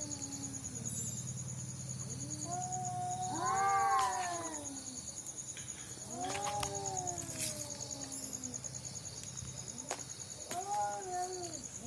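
Cat yowling at night: three long, drawn-out wavering caterwauls, the first and loudest a few seconds in, the others about 6 s and 10 s in.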